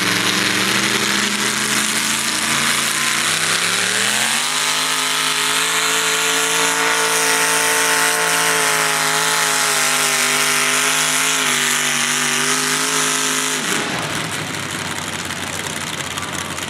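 Mini modified pulling tractor's engine at full throttle on a pull: the pitch climbs over the first four seconds, holds high and steady for about nine more, then cuts off suddenly near the end.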